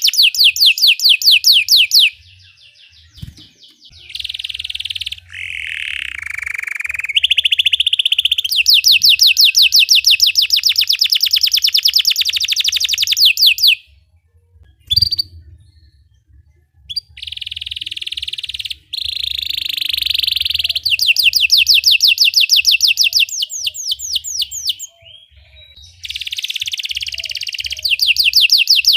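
Belgian canary singing long rolling trills of very rapid repeated notes, switching between phrases with brief pauses between them.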